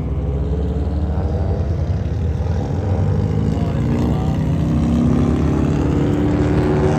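Race car engines running at speed, several overlapping, with the pitch of one rising around the middle as it accelerates.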